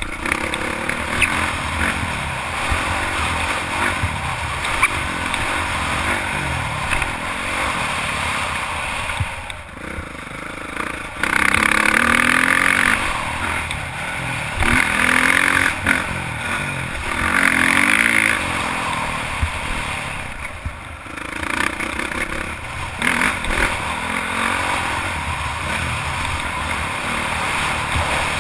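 Honda CRF450 single-cylinder four-stroke motocross bike engine being ridden hard, its pitch rising and falling as the throttle opens and closes. It gets louder three times in the middle, in short full-throttle pulls.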